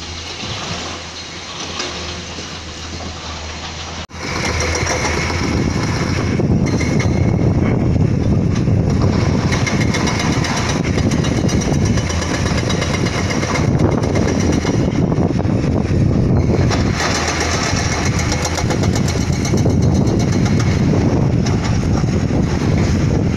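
Heavy construction machinery running: steady diesel engine noise, which cuts off abruptly about four seconds in and comes back louder.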